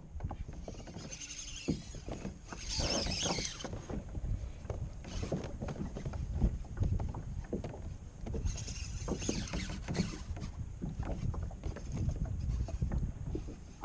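A kayak on the water: water splashing and lapping with frequent small knocks against the hull, and wind buffeting the microphone. Bursts of louder splashing hiss come about a second in, around three seconds in and around nine seconds in.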